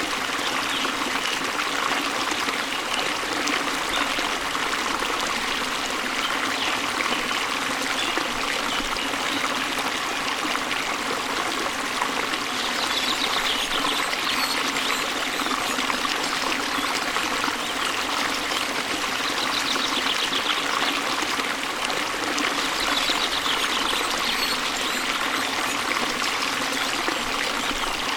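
Waterfall and stream: a steady rush of falling and flowing water, with faint high bird chirps a few times in the second half.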